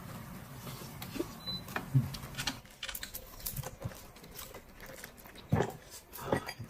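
Close-up eating sounds: chewing and crunching lettuce-wrapped meat, with scattered wet clicks and smacks. A few are louder, about two seconds in and near the end.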